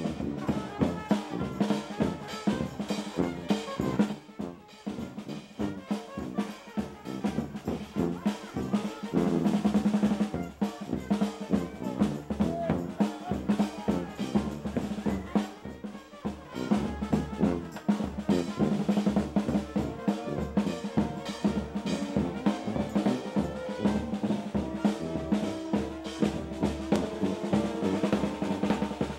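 Drum-led music: a busy snare and bass drum beat with held tones over it.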